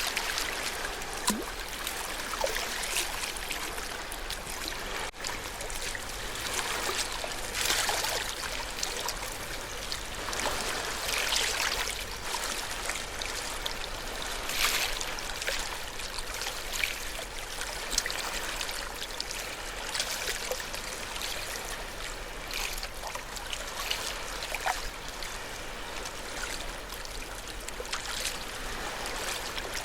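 Ocean waves washing against the shore: a continuous wash of water broken by irregular louder splashes every few seconds.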